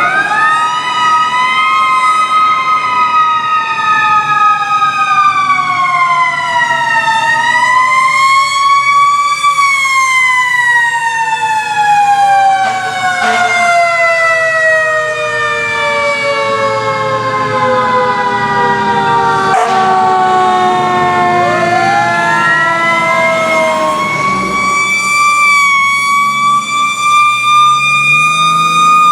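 Fire apparatus sirens wailing, several siren tones overlapping: pitches rise and fall, one tone sinks slowly over about ten seconds, and another winds up again about three-quarters of the way through and holds high.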